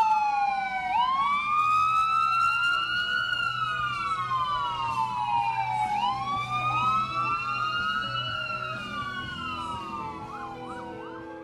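Several emergency-vehicle sirens wailing together, each rising and falling slowly in pitch, with a few quick yelps near the end as they fade away.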